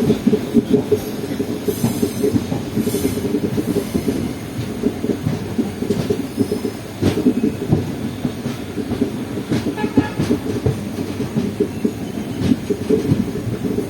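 A moving passenger train running on the track: a steady rumble with the irregular clatter of wheels over the rail joints. A brief high tone sounds about ten seconds in.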